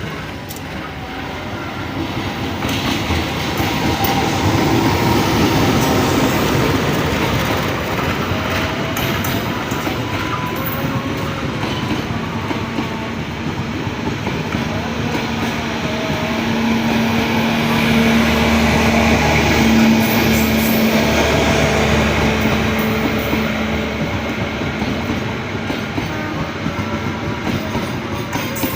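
A train passing at close range, its wheels running loudly on the rails, with a steady hum rising out of the noise about halfway through and fading again near the end.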